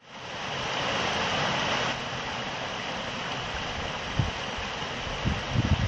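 A steady outdoor rushing noise fades in at the start, with gusts of wind buffeting the microphone from about four seconds in.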